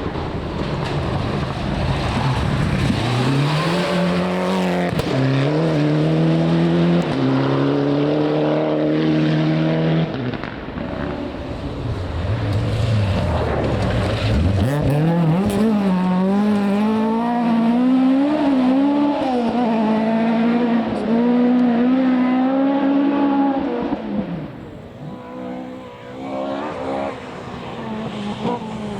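Rally car engine at full throttle, its pitch climbing and stepping down with each upshift. It lifts off about ten seconds in, then pulls hard again with the revs wavering, and fades away near the end.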